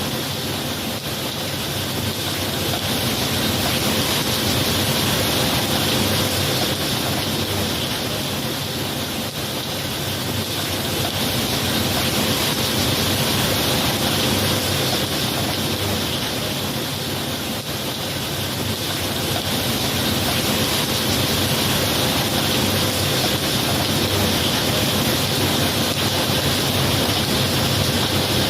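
Steady heavy rain, an even hiss that swells and eases slowly.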